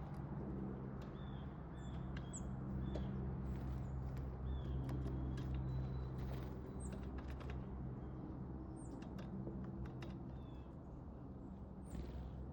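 Small backyard songbirds giving short, repeated chirps, mixed with many sharp clicks, over a steady low hum.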